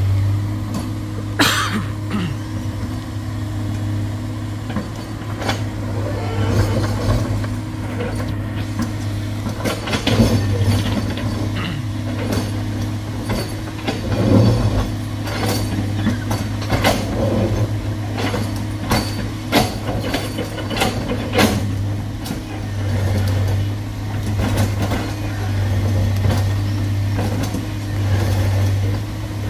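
Heavy diesel engine running steadily under a low hum, with frequent sharp clanks and knocks of metal on rock throughout.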